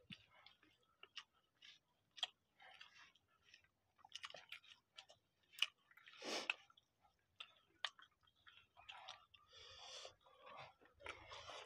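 Two people chewing rice biryani and eating it by hand: quiet, irregular chewing and lip smacks with soft clicks. A louder short hiss comes about six seconds in.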